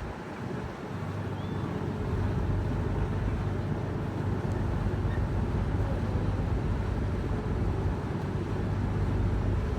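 Motorboat engine running with a steady low drone that comes up over the first couple of seconds, under a wash of wind and water noise.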